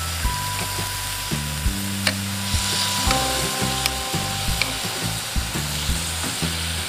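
Chicken breast fillets sizzling on a hot nonstick grill pan, with scattered sharp clicks of metal tongs against the pan as the pieces are turned.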